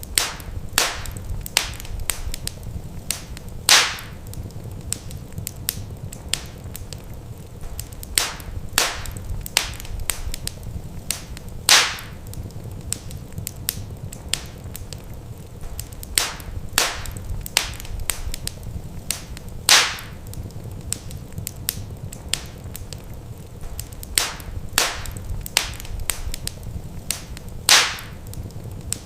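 Wood fire in a fireplace crackling, with scattered sharp pops over a low steady rumble. The loudest pop comes back every eight seconds, a repeating crackle pattern.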